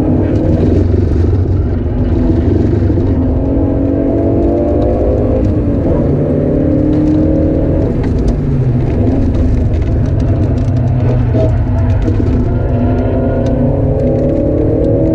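Alfa Romeo GTV 916's 2.0 Twin Spark four-cylinder engine driven hard on track. The revs rise as the car accelerates through the first half, drop as it slows around the middle, then climb again near the end.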